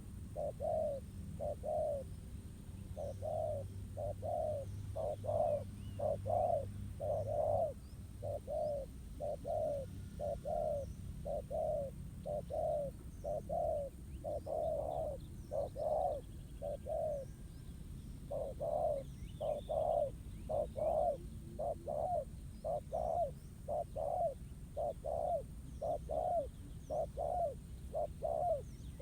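Spotted doves cooing steadily, short coo notes given in quick phrases over and over. Faint chirps of small birds sound now and then in the background.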